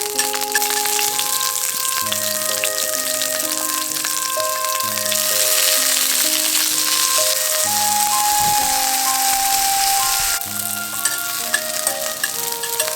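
Steak sizzling and crackling in a hot pan, the sizzle swelling about five seconds in and dropping off sharply near the end, over background music.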